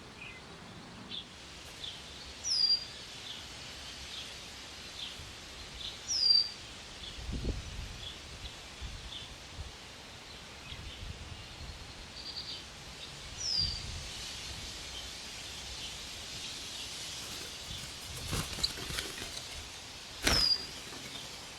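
Backyard birds calling: a short, high, downward-sliding call repeats four times several seconds apart over faint scattered chirps, with a few low thuds.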